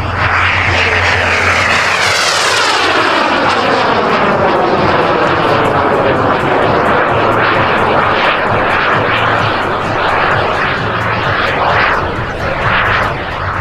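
Radio-controlled model jet's turbine flying past: its whine falls steadily in pitch over the first six seconds as it goes by, then it carries on as a rushing sound that swells and ebbs.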